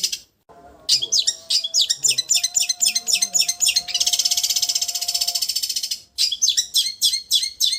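Long-tailed shrike (cendet) singing: a fast, even, high-pitched trill alternating with runs of quick, sharp chirps, with brief pauses about half a second in and at about six seconds.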